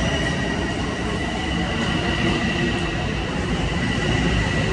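Long Island Rail Road train running through the station at speed, a continuous rumble with a steady high whine over it.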